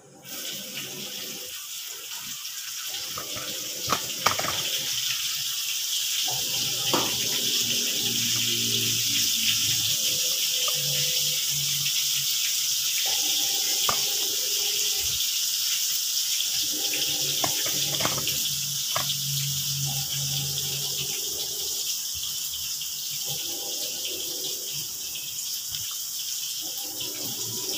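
Food frying in hot oil in a steel wok: a steady sizzle that starts as the food goes in, with a couple of sharp clatters about four seconds in.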